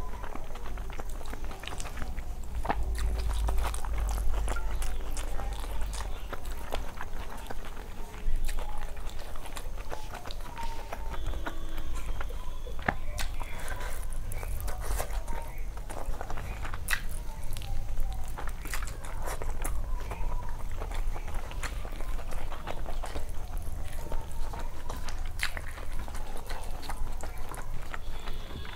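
Close-miked eating: chewing and lip-smacking of rice and curry eaten by hand, with many small wet mouth clicks and squishes, over a steady low hum.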